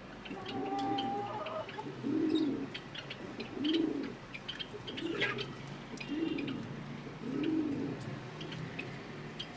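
Pigeons cooing over and over, a low rolling coo every second or so, with small birds chirping over them.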